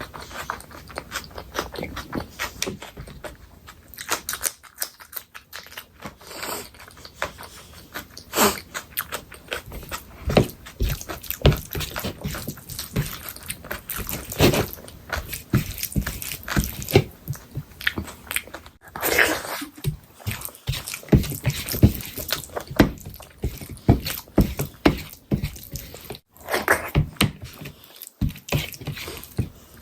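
Close-miked eating: steady, irregular chewing and biting, with wet mouth clicks and occasional crunches.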